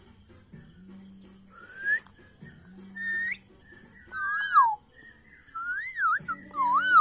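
Pet parrot whistling: two short rising whistles, then a run of wavering whistles that swoop up and down in pitch over the second half.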